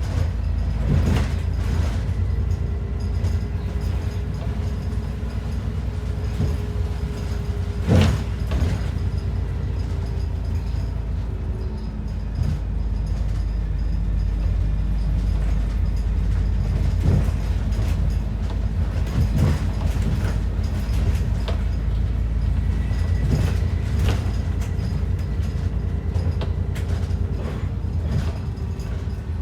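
ADL Enviro 400 double-decker bus heard from inside while moving: a steady low engine drone with a faint whine that drifts in pitch, and scattered rattles and creaks from the bodywork, with one louder knock about eight seconds in.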